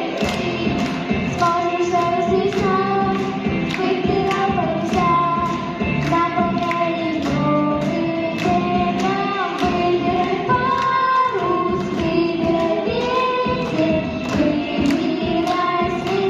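Singing over backing music with a steady beat.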